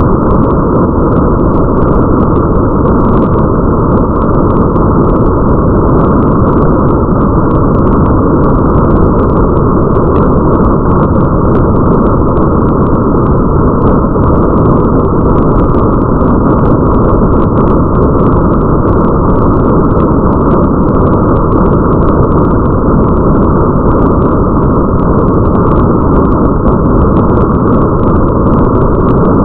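Steady, muffled rain ambience with a deep rumble underneath and a faint patter of drops on top, unchanging throughout.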